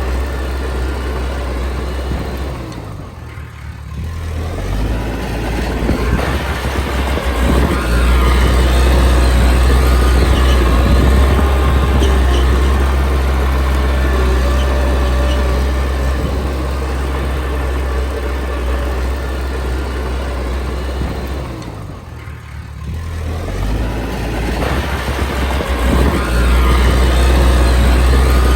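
Komatsu D20P crawler bulldozer's diesel engine running hard under load. It eases off briefly twice, about three seconds in and again about twenty-two seconds in, then picks back up.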